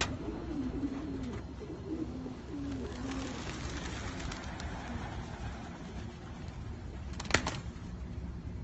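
Racing pigeons cooing in low, wavering tones, mostly in the first few seconds, with one sharp knock about seven seconds in.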